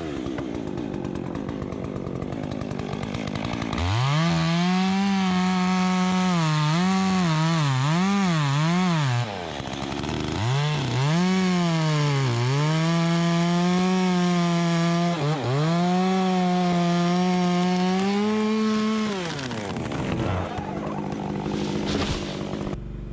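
Two-stroke chainsaw idling, then held at full throttle cutting through a tree branch, its pitch sagging and recovering again and again as the chain bites, with one brief let-off partway through; it drops back to idle near the end.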